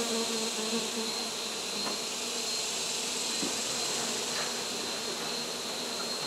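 Many honey bees buzzing around their exposed hive, a steady, dense hum.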